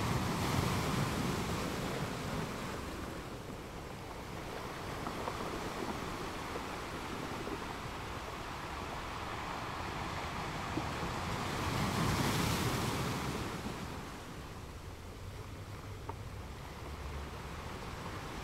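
Wind and choppy sea water: a steady rush of noise that swells louder twice, just after the start and again about twelve seconds in, with wind buffeting the microphone.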